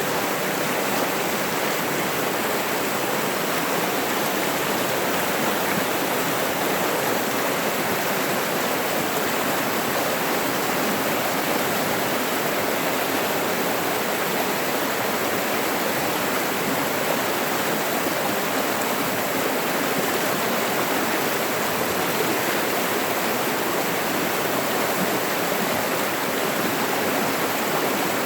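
Stream water rushing steadily over rocks, a constant, even roar of water.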